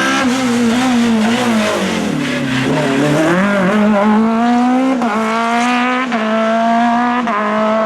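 Naturally aspirated Group F2000 rally car engine at high revs. Its pitch drops as the driver lifts about two seconds in, then climbs under hard acceleration, with quick upshifts about a second apart in the second half.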